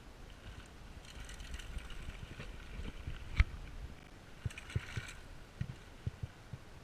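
Mountain bike riding fast over a dirt trail, heard on an action camera: a low rumble of tyres and wind with spells of rattling, a sharp hard knock about three and a half seconds in, then several lighter knocks.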